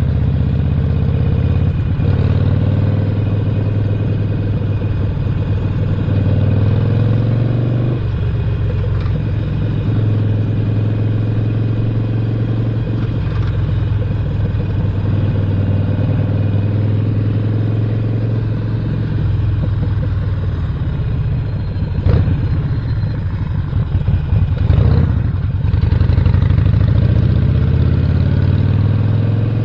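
2017 Harley-Davidson Roadster's 1200 cc air-cooled V-twin with a Stage 1 upgrade running under way, its pitch climbing and then dropping suddenly about eight seconds in. A few sharp knocks sound about two-thirds of the way through.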